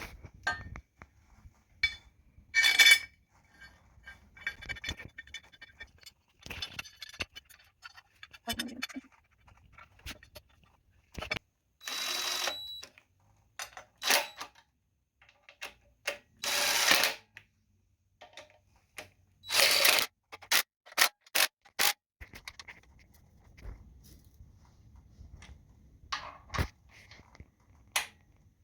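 Handling noise from parts and tools: irregular sharp clicks and knocks, with a few longer scrapes or rustles of about a second each.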